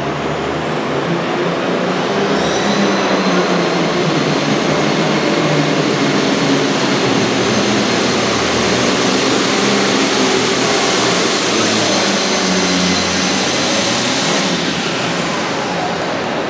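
Super Farm class pulling tractor's turbocharged diesel engine running hard under full load, loud and steady. A high turbo whistle rises about two seconds in, holds, and falls away near the end.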